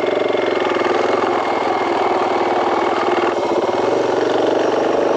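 KTM 500 dual-sport motorcycle's single-cylinder four-stroke engine running steadily as the bike rides off, its note shifting slightly a little past halfway.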